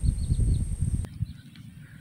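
Uneven low rumbling noise on the microphone, with a bird giving a quick series of short, falling chirps over a steady high whine. About halfway through, the sound cuts abruptly to a much quieter background.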